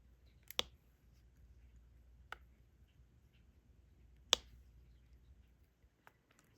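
Sharp plastic clicks of a diamond painting stylus picking up resin drills and pressing them onto the canvas. There are three clear clicks a couple of seconds apart, with a few fainter ticks between them.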